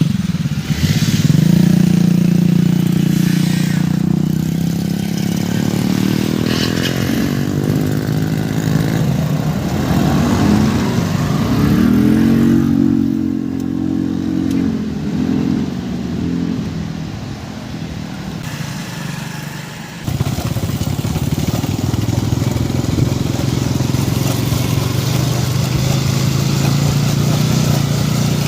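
Motorcycle engine running under way, its pitch rising and falling as the speed changes, with a sudden jump in the sound about two-thirds of the way through.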